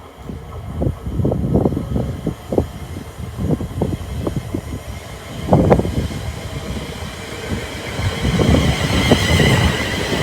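A train approaching on the main line, its rail noise building steadily over the last couple of seconds, over irregular low buffeting of wind on the microphone.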